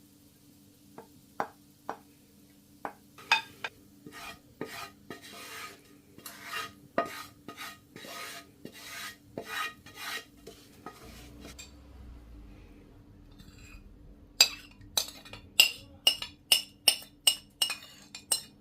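Spoon stirring and scraping in a cooking pot in a run of repeated strokes with a metallic ring. Near the end come a quick series of sharp, ringing knocks of utensil against pot.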